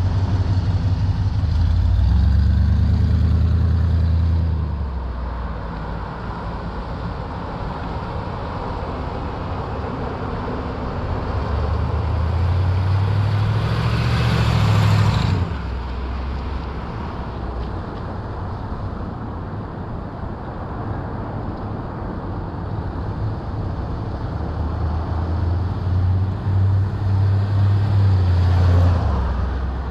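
1956 Ford Thunderbird's V8 engine running, swelling louder three times.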